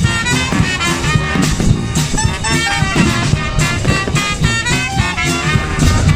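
Trad jazz band playing an upbeat swing number with brass lines over a steady beat.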